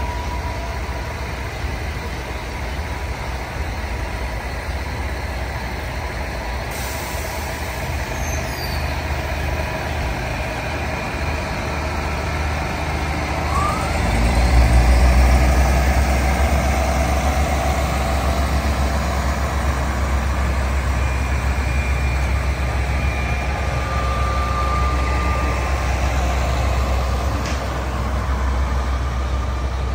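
Diesel passenger train pulling away from the platform and running past: a steady low engine rumble that grows louder about halfway through as it gathers speed.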